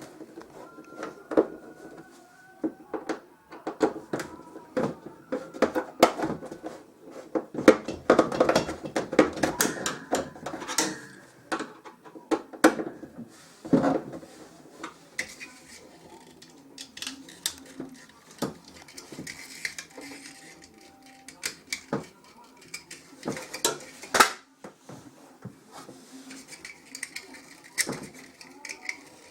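Irregular metal clinks, taps and knocks of tools and parts being handled during refrigerator repair work, busiest in the first half, with a few brief squeaks.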